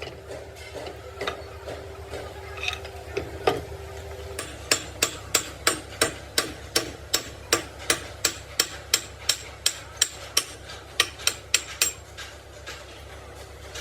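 A hammer strikes metal in a steady run of sharp blows, about three a second. A few scattered knocks come first, and the run stops shortly before the end. A steady low hum runs underneath.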